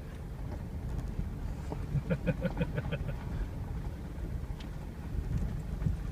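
Truck driving on a rough dirt trail: a steady low rumble with wind on the microphone. About two seconds in there is a quick run of about seven short pitched pulses.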